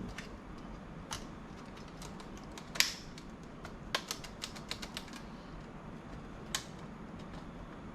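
Irregular small clicks and taps of laptop parts and tools being handled during disassembly, with the loudest click about three seconds in and a quick run of clicks a second later.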